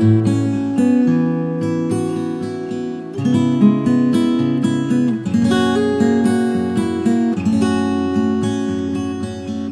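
Acoustic guitar playing a slow, relaxing instrumental, plucked and strummed chords ringing on.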